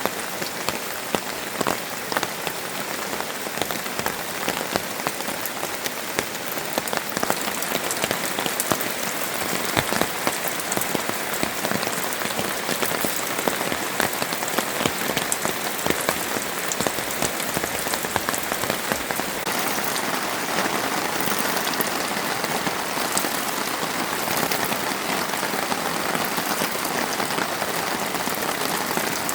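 Steady rain falling, with many individual drops ticking sharply on nearby surfaces, growing a little heavier in the second half.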